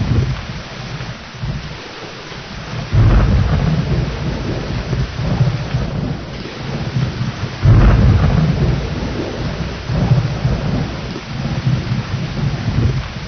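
Steady heavy rain with rolling thunder. Deep rumbles break in suddenly about three seconds in and again near eight seconds, each rolling on and slowly fading under the rain's hiss.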